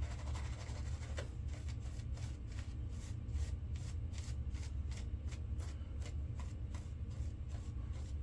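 A shaving brush working soap lather with quick, even strokes, about three a second, over a steady low hum.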